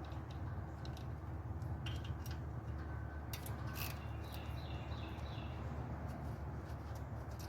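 Scattered small clicks and light handling sounds of hands working the wiring plug off the ignition coil of a mower's Kawasaki V-twin engine, which is not running, over a steady low background hum.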